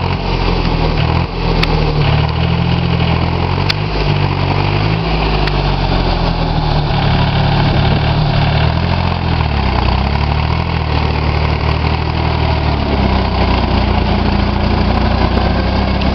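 Orchard tractor engine running steadily, its pitch wavering, dipping briefly around ten seconds in and then settling slightly higher.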